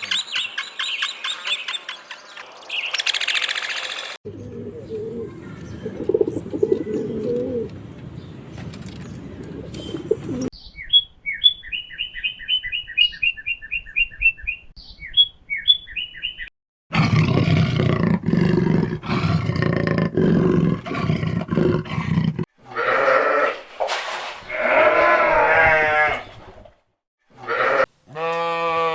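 A run of different animal calls cut one after another. Fast high chirping gives way to a low growl-like roar, then a bird sings in short repeated notes. A loud low roar follows, and near the end come higher wavering calls.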